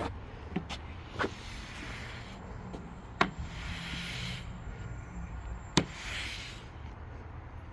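An engine running at low idle, with a hiss that swells and fades every second or two and four sharp knocks.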